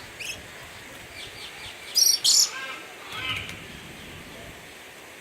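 Small birds chirping, with two loud, shrill calls close together about two seconds in and fainter twitters around them.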